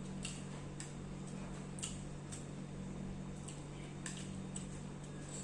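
Close-miked eating sounds: a string of short wet clicks and smacks, roughly two a second, as someone chews, over a steady low electrical hum.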